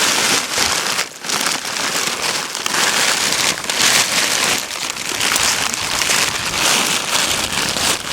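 Loud, continuous rustling and crackling of a large tree's branches being dragged along the ground, swelling and easing with each pull.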